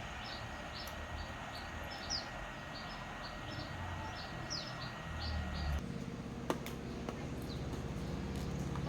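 A small bird chirping repeatedly, short quick notes about three a second, over a low steady hum. About six seconds in the background changes abruptly and the chirping thins to a few notes.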